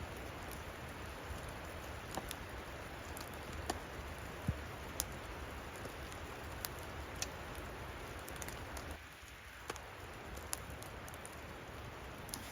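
Steady patter of falling precipitation, with scattered sharp ticks and a brief lull about nine seconds in.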